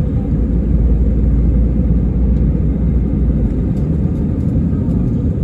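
Steady low rumble of an Airbus A319 airliner in flight, engines and airflow heard from inside the passenger cabin.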